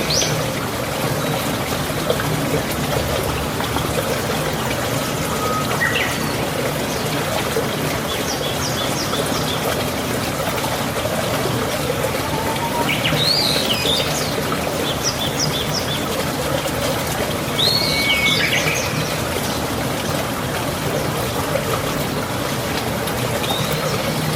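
Young chicks peeping in scattered bursts of short, high chirps over a steady background hiss and low hum.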